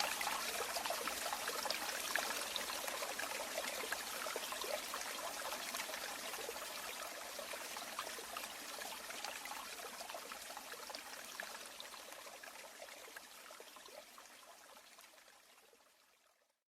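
Running water trickling and splashing in a steady patter, fading out gradually over the last several seconds to silence.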